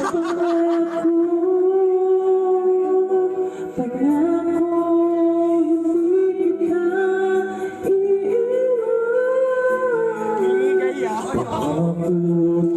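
A voice singing long, drawn-out notes with music, the pitch sliding slowly up and down.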